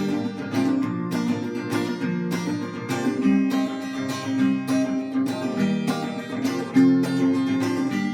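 Acoustic guitar strumming chords in a steady rhythm, the instrumental intro before the singing comes in.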